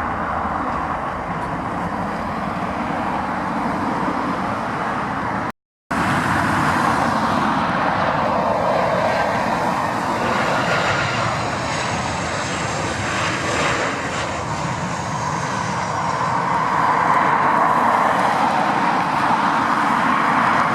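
Jet airliner engines. First the tail end of an Airbus A330-300 taking off, then an abrupt cut about six seconds in. After it comes a Boeing 737-700 on landing approach, its engines running with a high whine that falls in pitch, growing louder near the end.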